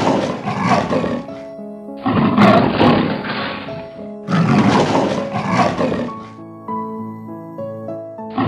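Leopard growls, three rough, noisy growls of about two seconds each, one after another, with a fourth starting near the end, over light background music with a simple melody.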